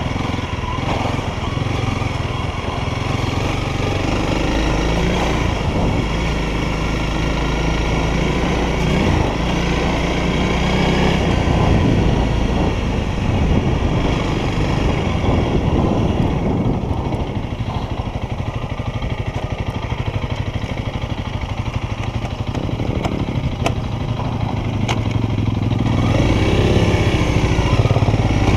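Honda CRF300L's single-cylinder four-stroke engine running as the motorcycle is ridden. The engine eases off around the middle and picks up again, revving up near the end.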